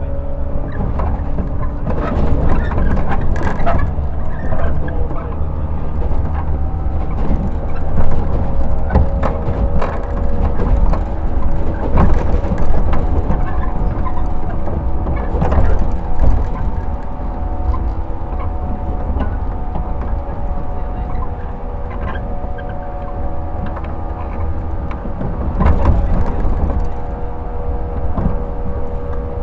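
Running sound inside a 115 series electric train's motor car: a strong low rumble with the steady hum of its MT54 traction motors, and irregular clicks and knocks from the wheels and car body.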